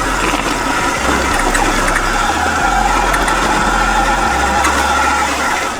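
Electric dirt bike's motor whining steadily while riding, with wind rumbling on the microphone.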